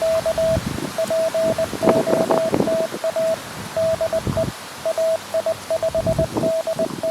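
Morse code (CW) tone from a QRP Labs QMX transceiver: a single steady pitch keyed in dits and dahs, with gusts of wind buffeting the microphone underneath.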